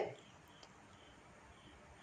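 Near silence: faint room hiss, with one tiny tick about half a second in.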